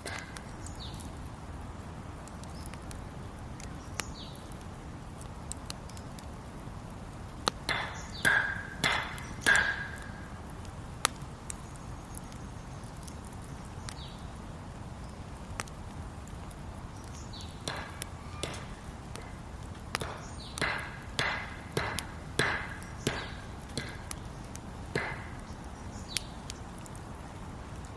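Two runs of sharp, ringing knocks on wood, a handful in each at about two a second, over a steady low hiss with faint scattered crackles between.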